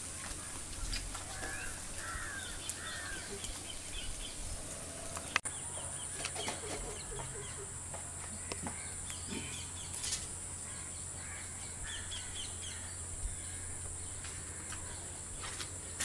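Birds calling off and on, short chirps and calls, over a steady high-pitched hiss.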